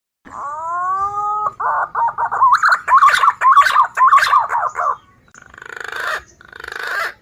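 Green pigeon (punai) calls played as a bird lure. A rising whistle comes first, then about three seconds of rapid, wavering whistled notes, then two harsher, raspy notes near the end.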